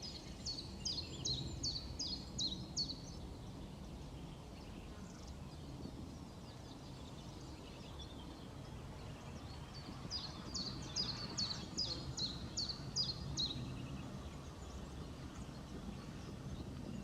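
A songbird singing twice, each phrase a run of about eight evenly repeated high, sharply falling notes at roughly three a second, over a low steady outdoor background.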